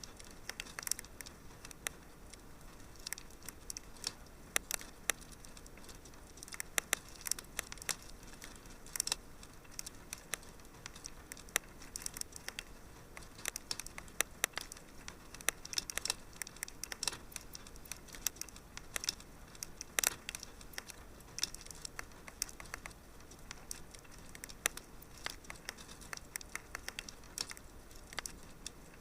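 Wood fire crackling and popping: many short, irregular snaps over a soft steady hiss, with one louder pop about twenty seconds in.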